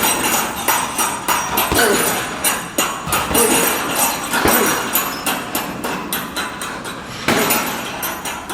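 A rapid, irregular run of sharp knocks or strikes, several a second, with a short break about seven seconds in.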